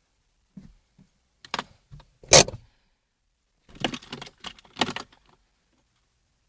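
Keys jangling and short knocks in a few brief clatters, the loudest about two and a half seconds in and a cluster between about four and five seconds. No engine is running.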